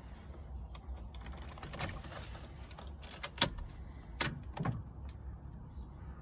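A few sharp clicks and light knocks of keys and controls being handled in a car before the engine is started. The loudest click comes about three and a half seconds in, with two more shortly after four seconds.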